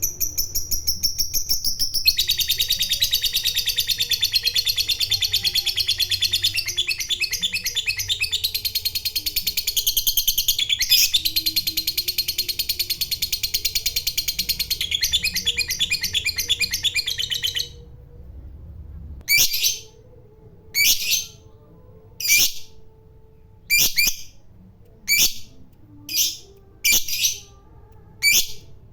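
Lovebird giving a long, rapid chattering trill (the 'ngekek panjang') for about fifteen seconds, then breaking off into short single calls about every second and a half.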